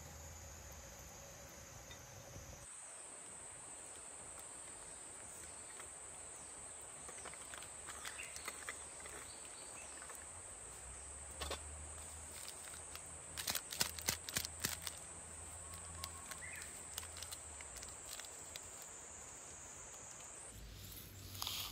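Steady, high-pitched chorus of insects. A brief cluster of sharp clicks and rustles comes about two-thirds of the way through, and the chorus changes abruptly twice.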